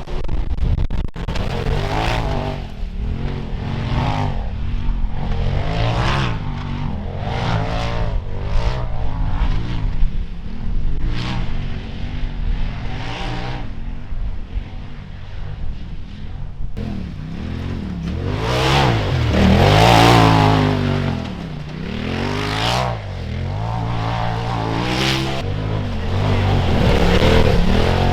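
Polaris RZR side-by-side's engine revving up and down as it is driven hard, the pitch rising and falling every second or two. The loudest and longest rev comes about two-thirds of the way through.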